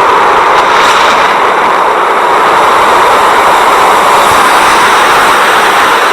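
Loud, steady rushing noise of a boat under way, with no distinct engine tone.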